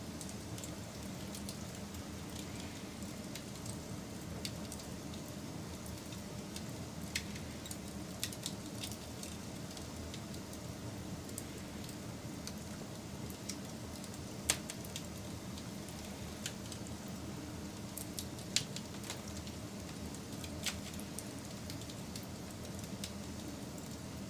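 Wood fire burning, a steady low rumble of flames with scattered sharp crackles and pops, a few of them louder, the sharpest just past the middle.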